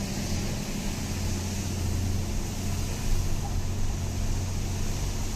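A vehicle's engine running steadily while driving, a low even hum with road and wind noise.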